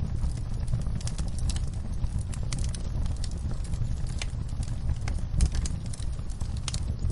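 Wood fire crackling in a fireplace: many small irregular pops and snaps over a steady low rumble of the flames.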